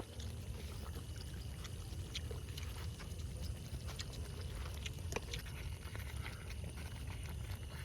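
Meat cooking in a pot over a wood campfire, with scattered crackles and clicks over a steady low rumble. Faint steady high tones run underneath.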